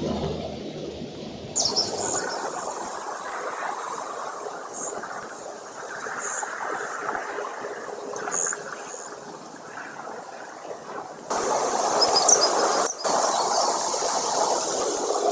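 Outdoor nest-camera sound: a steady rushing noise with a few short, high bird chirps. The sound jumps abruptly about a second and a half in and again near the end.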